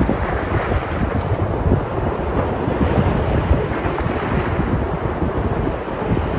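Sea surf breaking and washing ashore in a steady rush, with wind buffeting the microphone.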